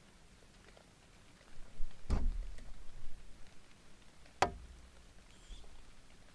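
Two heavy knocks on a wooden nest box about two seconds apart, the first with a low scuffing rumble around it: a tawny owl landing on and shifting about the box.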